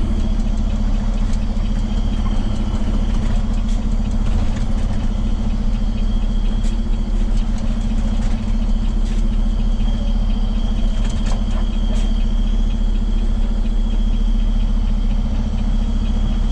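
Heavy rotator tow truck's diesel engine running steadily, a deep even drone with a thin high whine over it.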